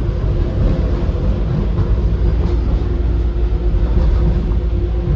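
Docklands Light Railway B92 stock train running, heard from inside the carriage: a steady low rumble with a steady hum from the electric drive.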